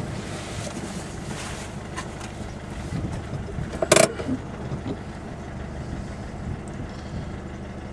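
Car engine idling, heard from inside the cabin, with one sharp knock about four seconds in.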